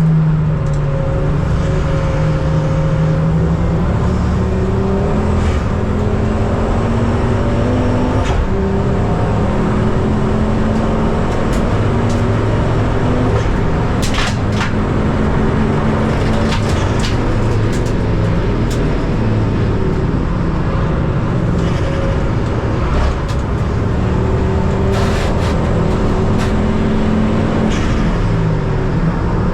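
Ford Focus ST race car's engine pulling hard under load. Its note climbs slowly through the revs and drops back at each gearchange, with a few sharp clicks along the way.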